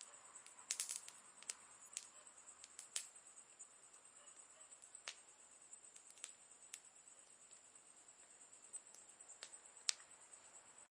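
Campfire crackling faintly: sharp, irregular pops and snaps, with a cluster about a second in and the loudest pop near the end, over a steady faint high hiss.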